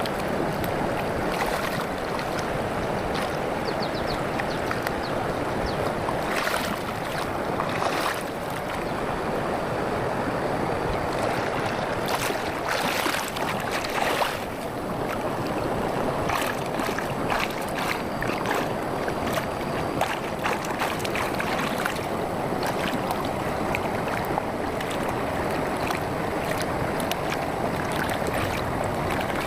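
Campfire burning: a steady rushing hiss with scattered sharp pops and crackles, a few louder cracks clustering in the middle.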